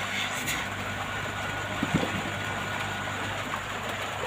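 Hot air rework gun blowing steadily at full airflow, a continuous hiss with a low fan hum, heating a phone to loosen its display. A few faint ticks can be heard along with it.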